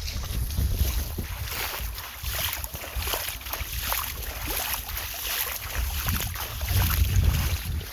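Water splashing and flowing as golden retrievers wade and play in a shallow river, with many short splashes over a continuous rush. Wind rumbles on the microphone throughout.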